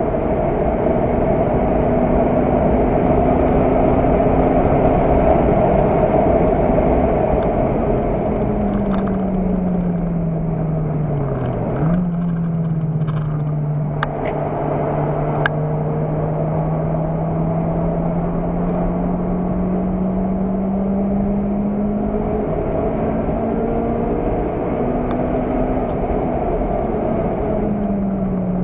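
Car engine heard from inside the cabin while lapping a race circuit, over steady road and wind noise. Its note falls about a third of the way in, then climbs slowly for about ten seconds, changes in a few steps, and falls again near the end; a few brief clicks are heard around the middle.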